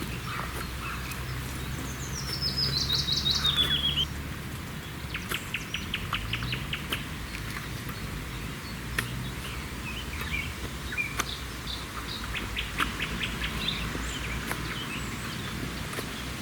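Several songbirds singing in a pine forest. The loudest is a fast, descending trilled phrase about two seconds in, followed by bursts of rapidly repeated notes from other birds. A low steady hum sits under the birdsong for the first few seconds, then stops.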